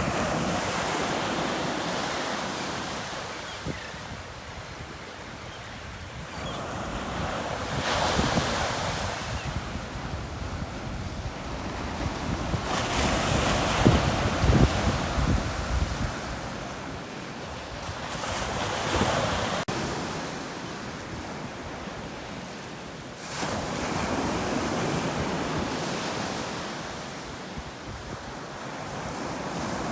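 Surf breaking on a beach: waves crash and wash in one after another, about every five seconds. The biggest one comes near the middle.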